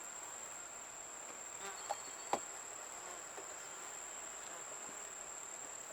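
Honeybees buzzing around an open hive, with two light knocks about two seconds in.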